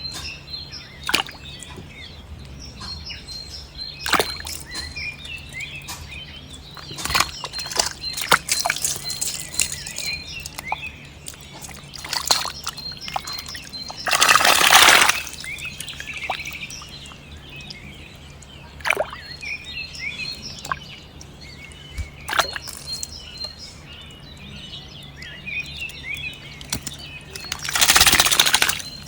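Small birds chirping throughout, with scattered clicks and a faint steady low hum. There are two loud rushes of splashing or pouring water, one about halfway through and one near the end.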